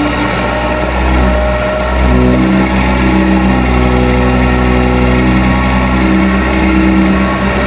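Case 580B backhoe's engine running steadily, its pitch shifting up about two seconds in and wavering after that.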